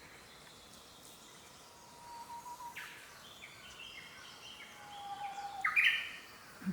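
Wild forest birds calling: faint, long, level whistles, then a string of short chirps from about two seconds in, with the loudest cluster of sharp notes near the end.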